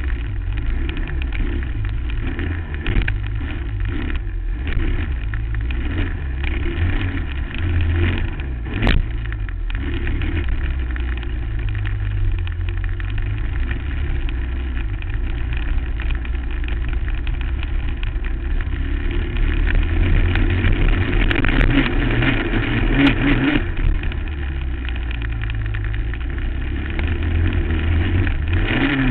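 2008 Suzuki LT-R450 quad's single-cylinder four-stroke engine running hard around a motocross track, the revs rising and falling with the throttle. It is louder for several seconds about two-thirds of the way in. There is a single sharp knock about nine seconds in.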